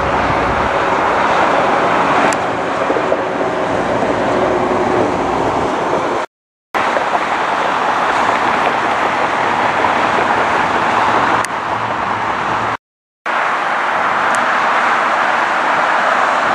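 Steady rushing roar of jet airliners, broken twice by sudden silent cuts between clips.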